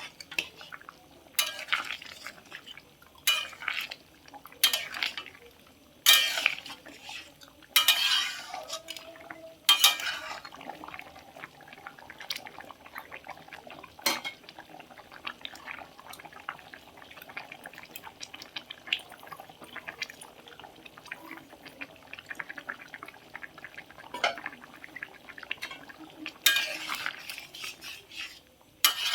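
Metal utensil scraping and clinking against a cooking pot as food is stirred, in loud bursts of strokes about six to ten seconds in and again near the end, with a quieter stretch of light clicks between.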